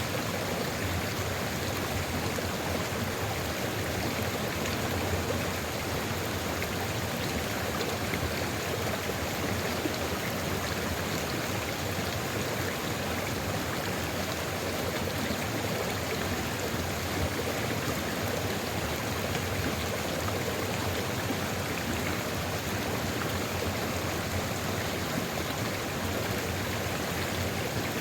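Sulfur river flowing: a steady, even rush of running water.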